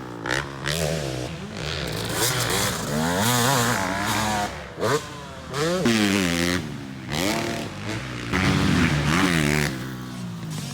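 Two-stroke dirt bike engine being ridden hard, its pitch repeatedly rising as it revs up and dropping off between revs.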